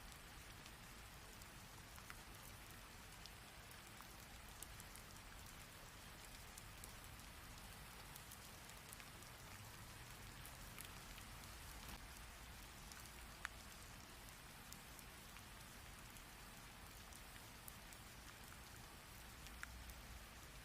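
Rain falling steadily: a faint, even hiss with scattered sharp drop ticks.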